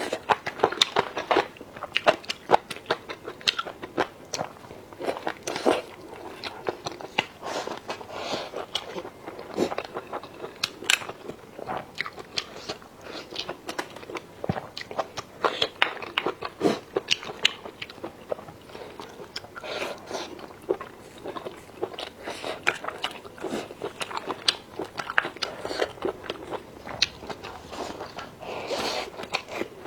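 A person eating close to the microphone: crisp bites and crunching with chewing in between, in an irregular run of sharp crunches throughout.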